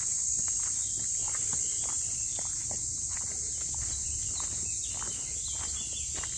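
A steady, high-pitched chorus of insects, with irregular crunching footsteps on the forest floor and a few short bird chirps about two-thirds of the way in.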